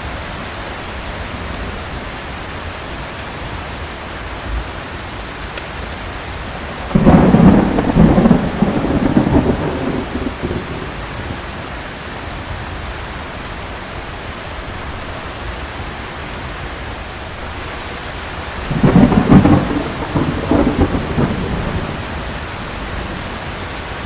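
Steady heavy rain with thunder clapping twice, each peal starting suddenly and rumbling on for a few seconds before fading back into the rain.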